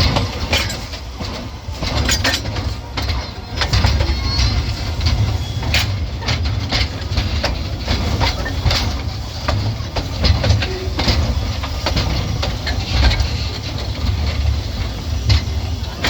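Heritage railway train in motion: irregular clicks and knocks of wheels running over the track, over a steady low rumble.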